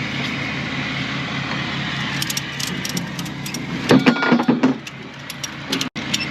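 An engine idling steadily, with light metallic clinks and a brief louder metal squeak and clatter about four seconds in.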